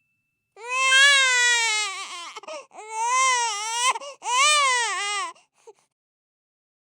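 A human baby crying: three wailing cries in a row, each rising and falling in pitch, with short breaks between them.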